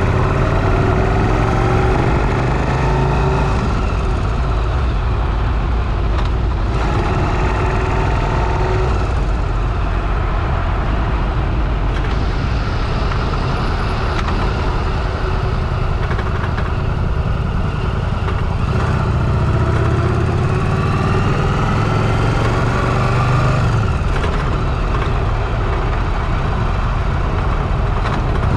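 Motorcycle engine running while riding. Its pitch rises several times as it accelerates, under heavy wind noise on the helmet-mounted microphone.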